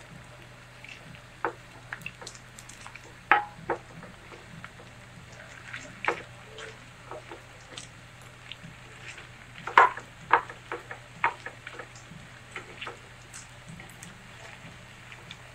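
Batter-coated cauliflower pieces frying in oil in a pan with a faint sizzle, while a spatula is worked among them, knocking and scraping against the pan several times, loudest about three seconds in and again around ten seconds in.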